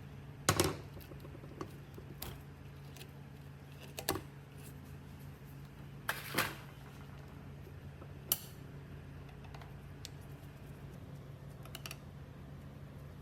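A few scattered light clicks and knocks, the loudest about half a second in and another near the middle, over a steady low hum.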